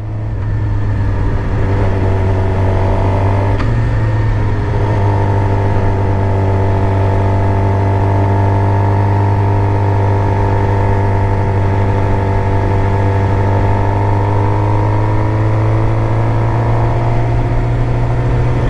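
Suzuki GSX-R 750's inline-four engine running steadily as the motorcycle cruises at low speed. There is one brief break in the engine note about four seconds in, after which the pitch sits slightly higher and holds.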